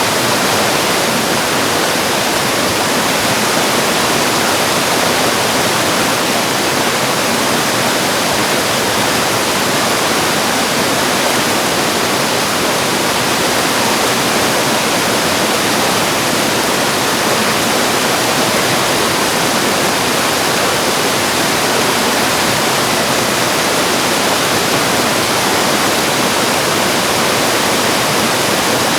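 Mountain valley stream, water rushing steadily and evenly with no letup.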